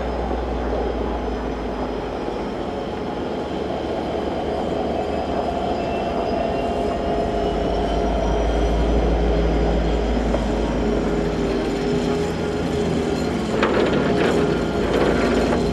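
Train running steadily, its engine giving several held tones over a low rumble, with a few sharp clatters near the end.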